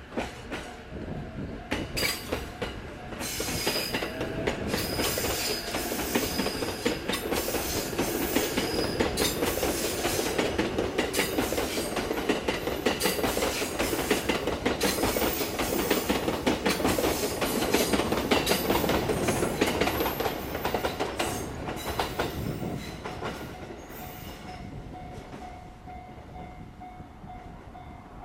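JR East E353 series limited express electric train pulling out and passing close by, its wheels clattering over the rail joints. The sound builds over the first few seconds, holds loud for about ten seconds, then fades as the train moves away.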